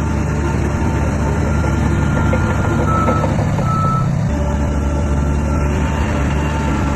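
Heavy diesel earthmoving machine running under a steady low engine drone, with a reversing alarm beeping at intervals over it.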